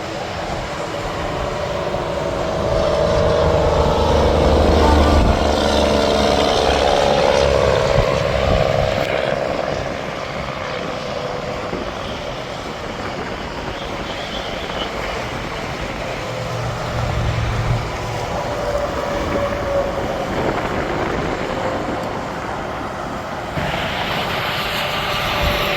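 Heavy trucks and traffic passing on an interstate highway: engine and tyre noise swells to a peak a few seconds in and falls away with a dropping pitch, then a steady traffic hiss, which turns suddenly louder near the end.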